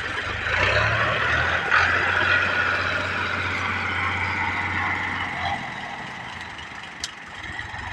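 Tractor engine running as it works to pull a stuck trolley free. The engine eases off after about five seconds, and there is a single sharp click near the end.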